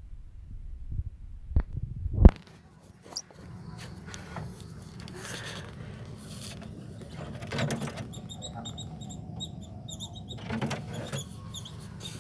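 Knocks and rattles of handling, the loudest a sharp knock about two seconds in. From about eight seconds in, small caged birds chirp in a rapid run of short, high calls.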